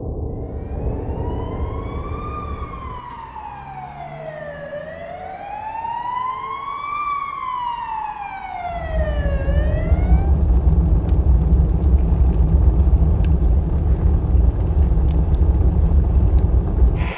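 A siren wailing, its pitch rising and falling slowly twice over about ten seconds. About nine seconds in, a loud low rumble with faint crackling takes over.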